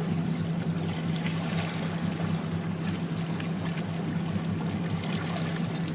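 Motorboat engine running at a steady speed with a low even hum, under the wash of water rushing along the hull.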